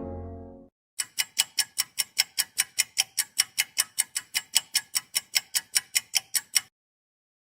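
Clock-ticking sound effect: a steady run of sharp, bright ticks, about four a second, lasting about five and a half seconds and stopping abruptly. A horn-like tone from the previous effect fades out just before the ticking starts.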